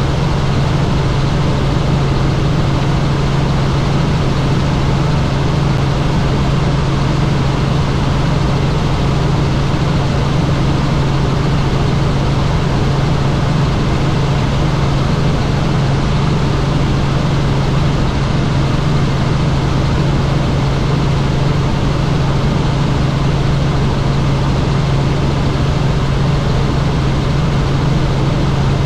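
Helicopter in flight: a loud, steady drone of engine and rotors with a strong low hum.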